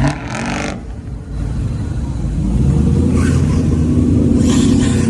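A car's engine running close by with a steady low drone, growing louder from about two seconds in.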